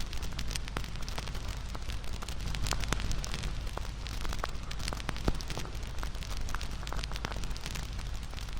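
Wood fire crackling and popping irregularly over a steady low rumble of flames, with one sharper pop about five seconds in.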